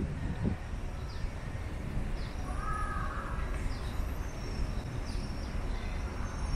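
Outdoor garden ambience: a steady low rumble, with a bird's short falling chirps repeated about once a second and one longer call about midway.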